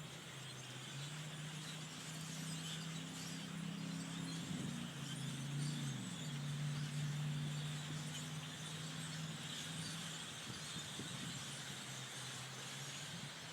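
A passing vehicle's engine hum that builds, drops in pitch about six seconds in as it goes by, and fades, over the faint high chatter of a large flock of blackbirds.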